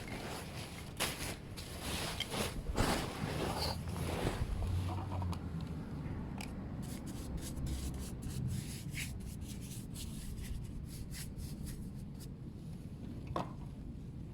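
A Brillo steel-wool pad scrubbing a stainless motorcycle exhaust pipe coated in toilet-cleaner paste, in short, irregular rubbing strokes that are louder in the first few seconds.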